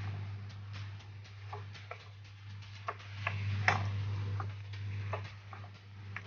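Metal spoon or spatula clicking and tapping against a frying pan of chicken and vegetables, in irregular strokes over a low steady hum.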